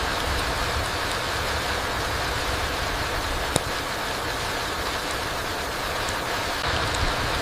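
Steady rain falling through trees onto a mossy forest floor, an even hiss, with one sharp tick about three and a half seconds in.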